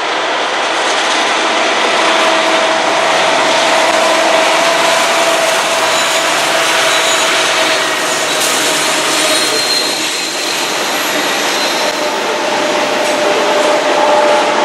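Freight train rolling past: a loud, steady rushing of wheels on rail with a thin, steady whine over it.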